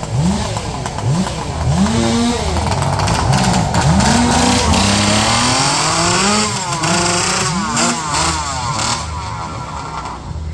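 Racing chainsaw's two-stroke engine being revved again and again, its pitch climbing and dropping over and over.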